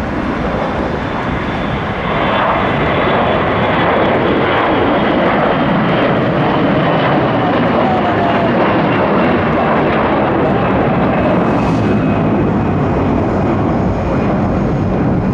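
Jet airliner engines at takeoff power on a departure: a loud, steady roar that swells about two seconds in, with a faint high turbine whine slowly falling in pitch.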